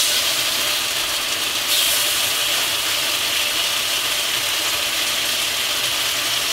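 Strips of beef sizzling steadily in hot safflower oil in a wok while they are turned with tongs; the sizzle gets a little louder about two seconds in.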